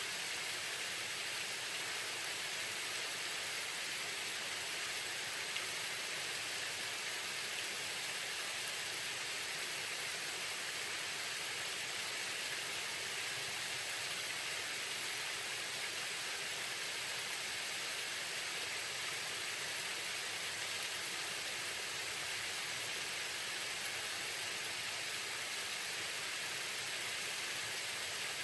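Waterfall: a steady, even rush of falling water, with a hiss in the higher range and little low rumble.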